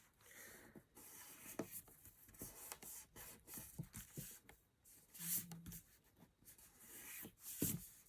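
Faint rustling, scraping and light tapping of die-cut cardstock pieces being handled and pressed together by hand, in irregular short bursts, the loudest a little past the middle.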